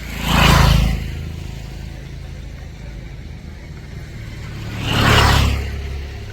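Two road vehicles passing close by, one just after the start and another about five seconds in, each swelling and fading over about a second, over a steady low engine hum.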